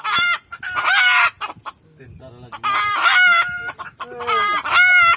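Junglefowl roosters crowing, four loud crows in turn, with quieter clucking between.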